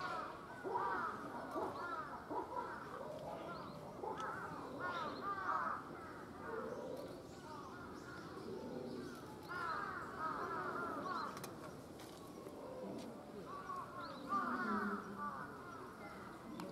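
Birds calling outdoors in about four bursts of quickly repeated calls, with quieter stretches in between.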